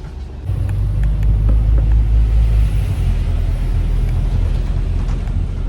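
Passenger boat's engine running with a deep, steady rumble that grows louder about half a second in, as the boat picks up power.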